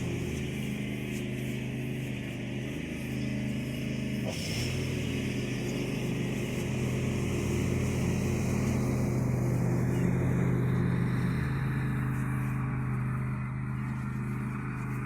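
John Deere L100 lawn tractor engine running steadily, its pitch dipping briefly about four seconds in.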